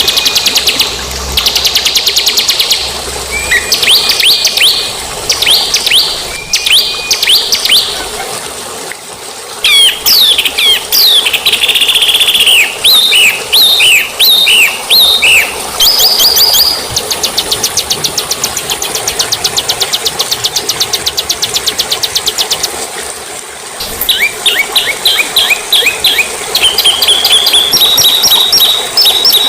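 Small songbirds singing loudly and almost without pause: rapid high trills, quick chirps and fast rising and falling whistles, with a short lull about nine seconds in and another near twenty-four seconds.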